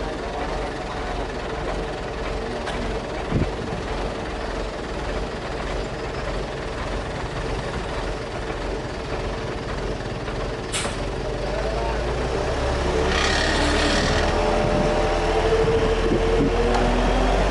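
Heavy diesel machinery running: a low, steady engine sound that grows louder in the last third, with a single sharp click and then a short hiss after the midpoint.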